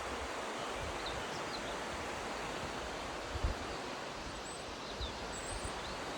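Steady rush of a mountain stream, with a few faint, short high bird chirps scattered through it. Two soft low thumps come about halfway through and again near the end.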